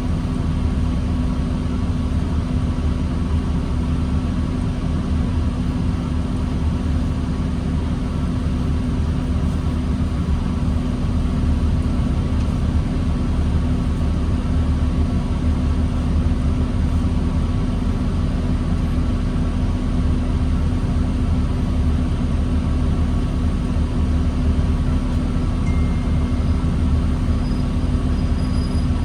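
Diesel engine of a 2009 New Flyer D40LFR transit bus, heard from inside the bus, running steadily with a low drone and a steady hum. It gets slightly louder about a third of the way in.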